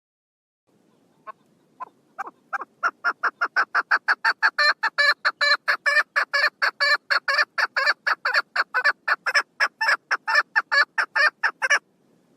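Female chukar partridge calling: a run of short, clipped notes that begins with a few spaced-out ones and quickens into a steady rapid series of about four a second, then stops abruptly.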